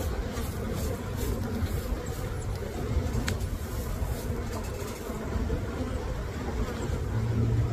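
Honey bees buzzing around an open hive: a steady low hum of many bees, with a few faint clicks.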